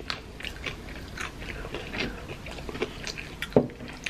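Close-miked chewing and biting of crisp fried taquitos: irregular small crunches and mouth clicks, with one sharper click about three and a half seconds in.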